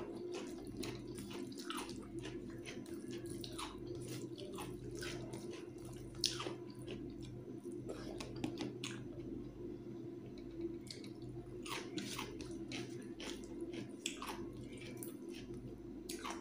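Wet chewing of a mouthful of rice and thin chicken curry, with fingers squelching rice into the gravy on a steel plate: many small irregular wet clicks over a steady low hum.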